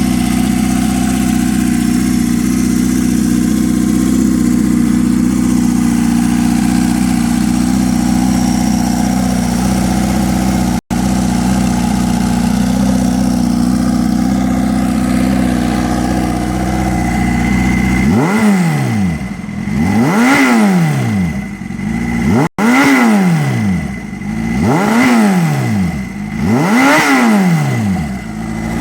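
Turbocharged Kawasaki KZ650 inline-four motorcycle engine, bored out to 830cc, idling steadily, then blipped up and back down five times, about one rev every two seconds, in the last ten seconds. The sound cuts out for an instant twice.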